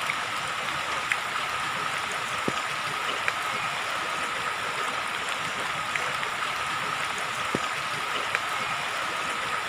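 Steady hiss of rain falling on a flooded yard, with a few faint ticks of drops or splashes.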